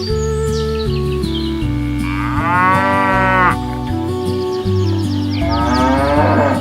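Cattle mooing twice over background music: one long call about two seconds in, lasting about a second and a half, and a second call rising in pitch near the end.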